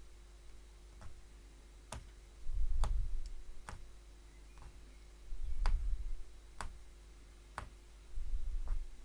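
Punchcraft hollow needle stabbing repeatedly through fabric: sharp clicks about once a second, with dull low thumps about every three seconds.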